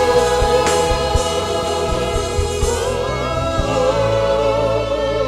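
Gospel worship music: a choir sings held notes over a band, with a regular drum beat that drops out about three and a half seconds in, leaving sustained chords and bass.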